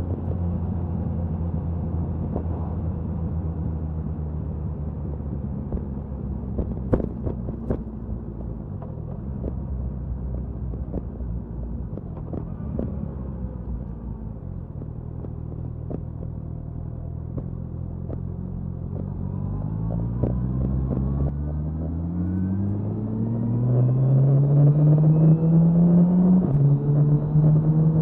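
Suzuki Hayabusa's inline-four engine and exhaust cruising at a steady drone, then revving up in the last third. The pitch climbs twice and drops sharply at an upshift near the end, growing louder. Wind noise on a microphone mounted near the tail.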